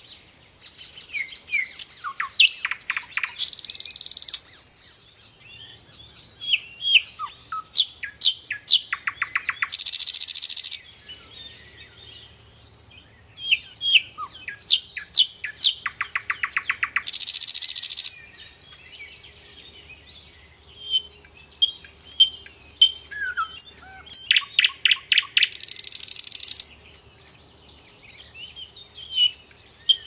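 Small birds chirping and twittering in repeated bursts of quick chirps and rapid trills, with quieter gaps of a few seconds between bursts.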